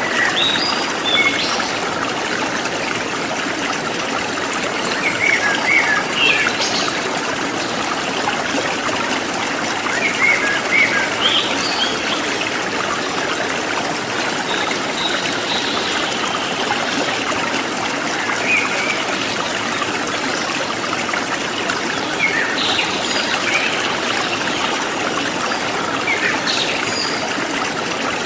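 A forest stream flowing and trickling steadily, with short bird chirps breaking in every few seconds.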